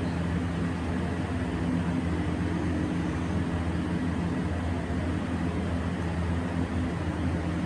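Steady low mechanical hum from a running motor or engine, holding the same few low tones throughout.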